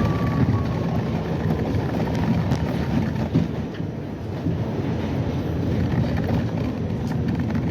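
New York City Subway R68 train running, with a steady rumble of wheels and motors on the rails. A faint whine slides down in pitch near the start.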